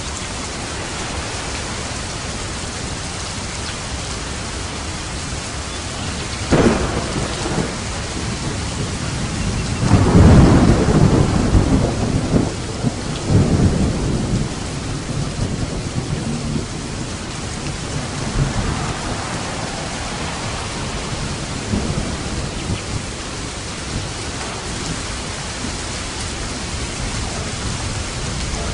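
Steady rain falling, with a thunder crack about six seconds in and then a longer, deep rolling rumble of thunder that peaks about ten seconds in and dies away after a few seconds.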